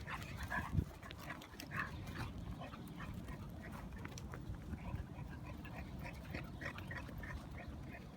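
A puppy whimpering in short, faint, high squeaks: a few in the first two seconds, then a run of them in the last couple of seconds, over a low rumble.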